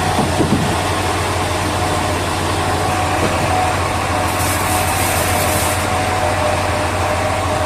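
Heavy sawmill machinery running steadily with a constant engine-like hum. A short burst of hiss comes about halfway through.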